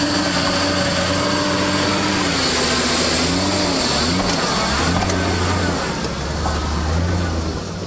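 Off-road 4WD engine revving up and down as it crawls over rocky ground, the engine note rising and falling several times.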